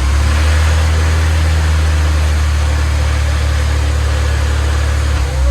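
Honda S2000's four-cylinder engine running through its new exhaust, holding a steady engine speed for several seconds, with a low drone under a wash of noise.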